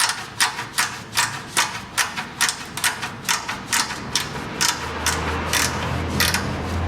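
Ratchet wrench worked in quick back-and-forth strokes, about two and a half clicking strokes a second, tightening the bolts of an exhaust heat shield. A low steady hum comes in about two-thirds of the way through.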